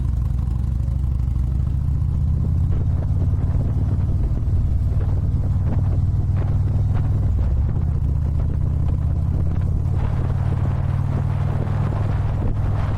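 Harley-Davidson Ultra Limited's V-twin engine running at a steady cruise. Wind noise on the microphone grows about ten seconds in.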